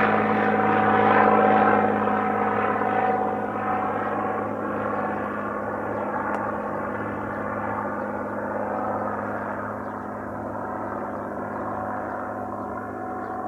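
Cessna 182 Skylane's single piston engine and propeller droning steadily as the plane moves off, the sound slowly fading.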